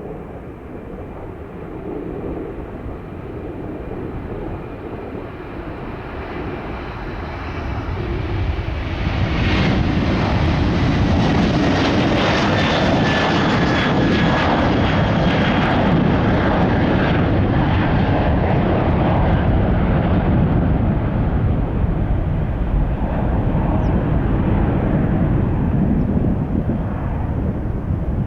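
Jet airliner taking off: the engine noise builds over the first nine seconds into a loud, steady rumbling roar, with a faint whine gliding downward as the aircraft passes, then eases a little near the end.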